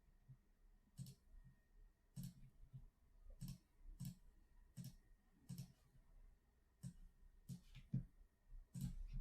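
Faint computer mouse clicks, about ten single clicks at uneven spacing of roughly one a second, as a list is cut, pasted and sorted in a spreadsheet.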